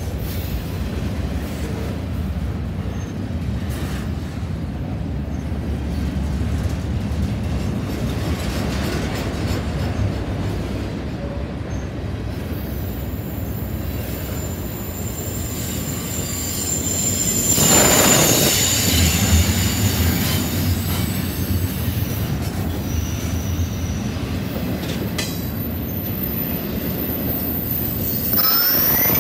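Double-stack intermodal freight train's loaded well cars rolling past close by: a steady rumble of steel wheels on rail. A thin, high wheel squeal sets in a little before halfway and fades about two-thirds through, around when the rumble is loudest, and a short rising squeal comes near the end.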